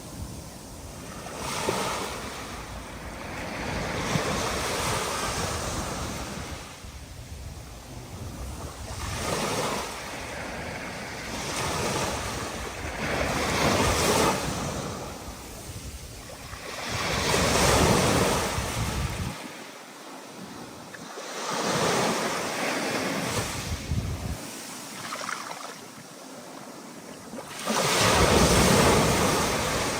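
Stormy ocean surf with wind: waves breaking and washing in, each surge swelling and fading over a few seconds, the biggest ones near the middle and near the end.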